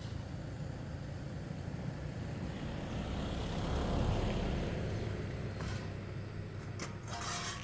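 A road vehicle passing close by: its noise swells to a peak about four seconds in and then fades away, over a steady low hum.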